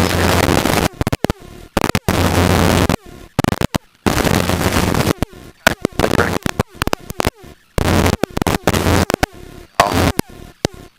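Wind noise on a helicopter headset microphone, rushing loudly in bursts that start and stop abruptly with near-silent gaps between, many times over.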